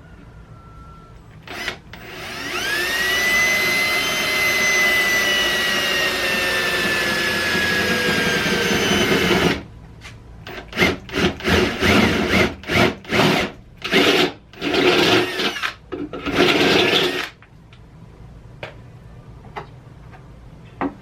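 Power drill boring a clip hole through a car fender: a short blip, then the motor whines for about seven seconds, its pitch sagging slowly as the bit cuts, followed by a run of short trigger pulses for several seconds.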